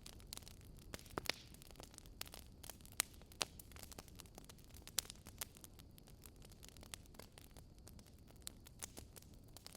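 Wood fire crackling in a fireplace: irregular sharp pops and snaps, a few of them louder, over a steady low background rumble.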